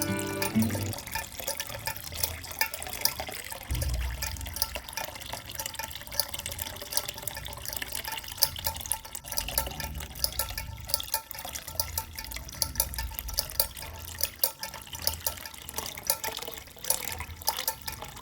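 Water running and splashing in a thin stream, with a dense patter of small drips and splashes throughout.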